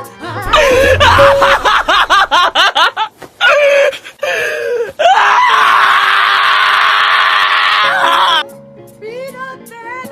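Music with a voice making rapid warbling sounds for the first few seconds, then a loud, harsh scream lasting about three seconds that cuts off suddenly, followed by softer music.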